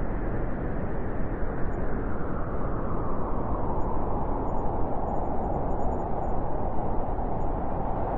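Wind blowing steadily as a dense, even rushing noise, its higher part swelling a few seconds in.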